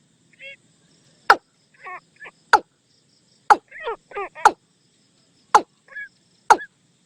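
Watercock calls played as a decoy lure: short, sharp notes falling in pitch about once a second, with softer wavering notes between them.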